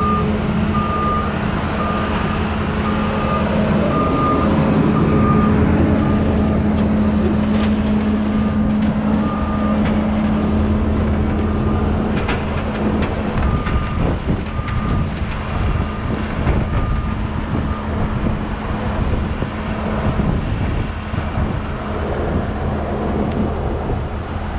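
Kobelco SK210 excavator's diesel engine running steadily under load as it drives onto a trailer, with a warning alarm beeping about once a second that stops about three quarters of the way through.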